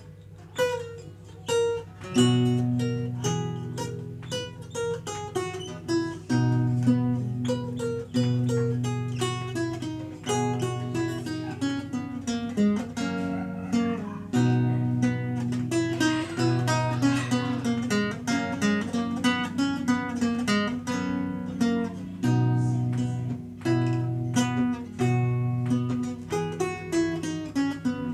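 Renaissance lute played solo: a plucked melody with quick running passages over repeated, held low bass notes.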